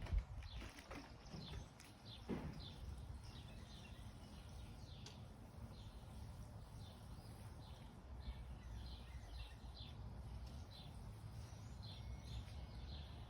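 Small songbirds chirping repeatedly, short high chirps that fall in pitch, over a low steady rumble, with a couple of soft knocks near the start and about two seconds in.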